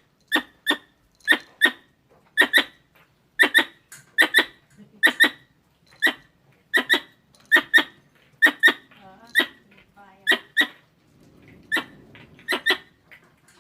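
Squirrel calls: short, sharp chirps given in quick pairs and triplets, repeating over and over, of the kind used to lure squirrels.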